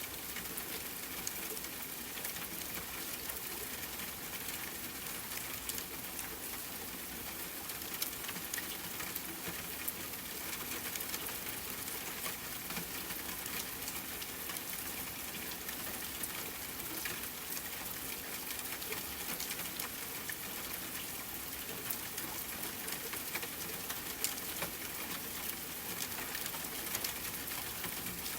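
Steady rainfall, an even hiss, with scattered small sharp crackles like those of a wood fire mixed in.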